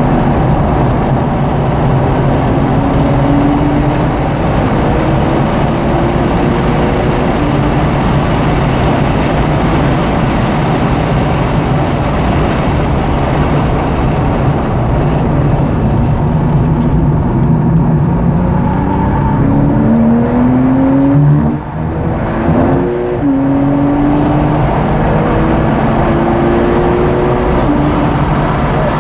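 A 2009 Porsche 911's flat-six engine under hard acceleration, heard from inside the car. Its pitch climbs in several long rises, each cut back by an upshift, with a brief lift about three quarters of the way through. Steady road and wind noise runs underneath.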